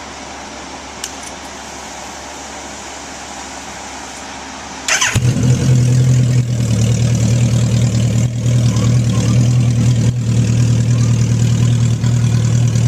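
A car's swapped-in Suzuki Hayabusa inline-four motorcycle engine starts about five seconds in, catching at once after a brief crank. It then runs loud and steady at an even pitch.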